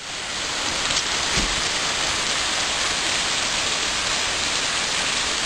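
Rushing water, a steady, even hiss that starts abruptly and holds at one level.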